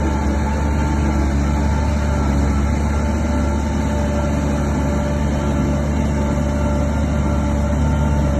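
Shantui DH17 bulldozer's diesel engine running steadily under load, a deep continuous drone with a few steady whining tones above it.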